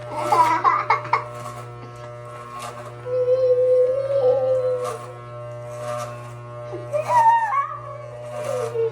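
Electric hair clippers buzzing steadily while a young child cries and whines in long drawn-out wails, one held about three seconds in and a rising, breaking cry about seven seconds in.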